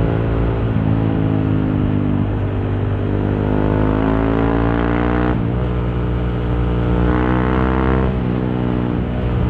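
Honda CRF150L's single-cylinder four-stroke engine running through a Norifumi Torc aftermarket exhaust, heard from inside the rider's helmet. It pulls up in revs twice, each climb cutting off in a sudden drop in pitch as the next gear goes in, with wind hiss underneath.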